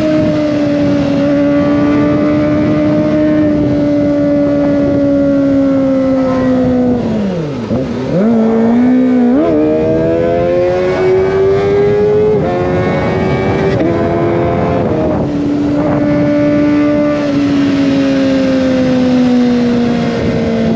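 Kawasaki ZX25R's 250 cc inline-four running through an Over Racing GP-RS full-system exhaust while being ridden. The steady note sinks slowly, dips sharply about seven seconds in, then climbs again through a couple of gear changes before settling into a slowly falling drone.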